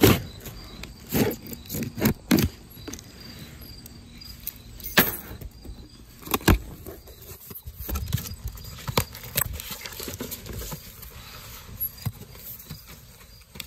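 A cardboard box being opened with a key: keys jangling and scraping through packing tape and cardboard, with irregular sharp knocks and rustles.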